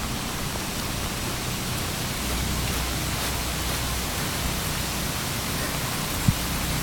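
A steady, even hiss with some low rumble, and a single short thump about six seconds in.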